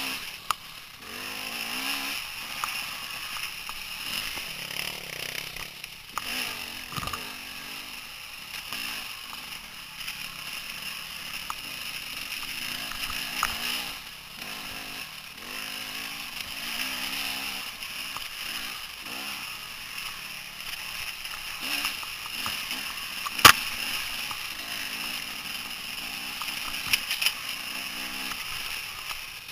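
Dirt bike engine running, its pitch rising and falling as it revs on and off, with a single sharp click about three-quarters of the way through and a few lighter clicks near the end.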